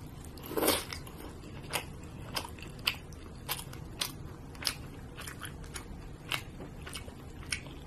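A person biting into and chewing a mouthful of grilled wagyu beef on sushi rice. There is one louder mouth sound just under a second in, then short mouth clicks and smacks about every half second.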